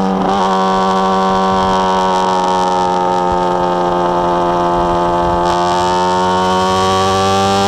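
Honda Hornet's inline-four engine with a 4-into-1 exhaust running at steady revs on the move. Its pitch sags slightly and then climbs slowly over the last couple of seconds.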